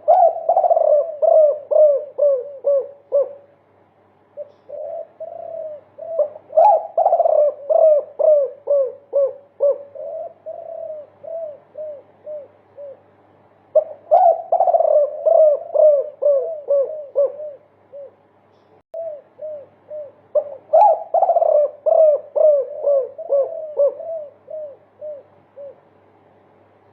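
Derkuku dove cooing in its 'multi kuk' style: long series of quick, repeated coo notes, about three a second. Four series run for several seconds each, with short pauses between them.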